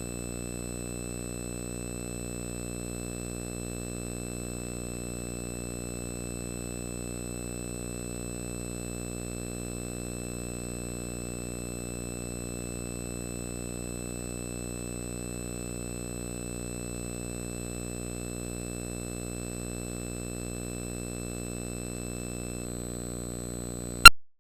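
A steady buzzing hum with many evenly spaced overtones and a faint high whine, unchanging throughout. Right at the end comes one loud sharp click, and the sound cuts out.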